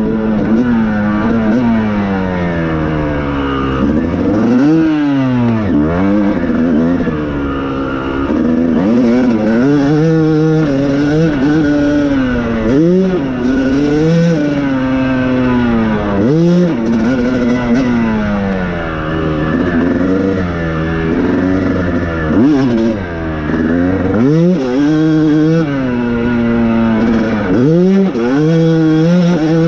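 Yamaha YZ250's single-cylinder two-stroke engine revving hard as the bike is ridden, its pitch climbing and dropping again and again as the throttle is opened and chopped.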